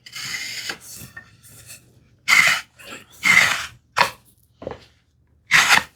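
A blade scoring wood along the grain in several short, scratchy strokes, cutting the edge lines of a groove so the wood fibres will not tear out.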